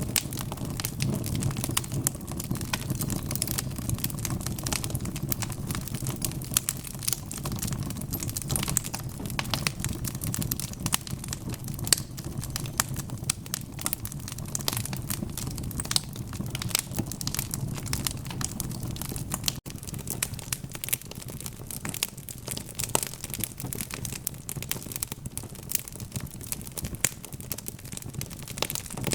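Wood fire crackling: many sharp pops and snaps over a low steady rumble of the burning fire. The sound breaks off for an instant about two-thirds of the way through, and the low rumble is weaker afterwards.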